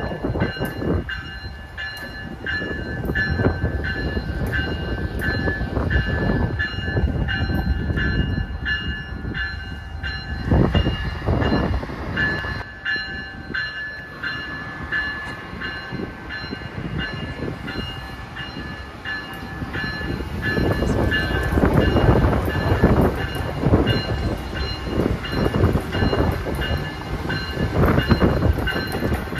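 Amtrak electric trains on the Northeast Corridor: a rumble and clatter of wheels on rail with many small clicks, over a steady high whine. It swells about a third of the way in and grows loudest over the last third as an Amtrak ACS-64 electric locomotive comes up the track.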